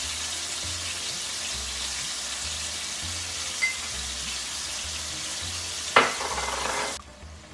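Chicken pieces frying in hot oil in a non-stick pan, a steady sizzle. There is one sharp tap about six seconds in, and the sizzle cuts off suddenly near the end.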